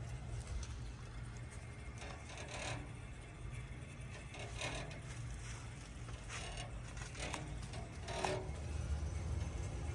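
2001 Bard 5-ton wall-hung heat pump running in cooling mode: a steady low hum, with scattered light clicks and rattles. The hum gets louder about eight seconds in.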